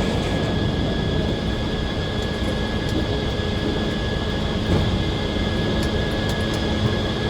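Circular sawmill running steadily, a constant mechanical drone with a steady high whine held throughout.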